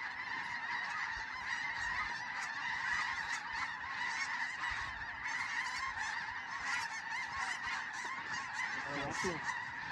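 A large flock of snow geese calling, a dense continuous chorus of many overlapping high honks.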